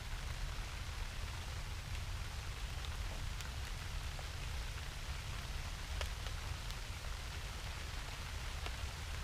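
Steady rain, with scattered drops tapping sharply close by over a constant low rumble.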